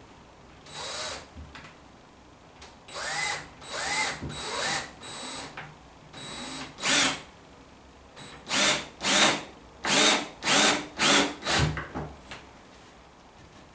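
A drill with a crosshead bit driving wood screws into timber in short trigger bursts, its motor whine rising and falling with each burst. There are a few spaced bursts, then a quick run of about eight near the end.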